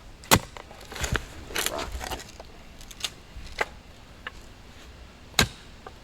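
Hand digging in a post hole near a tree: a digging blade chops into soil and tree roots with about five sharp strikes, the loudest near the start and near the end. Soil scrapes about one and a half seconds in.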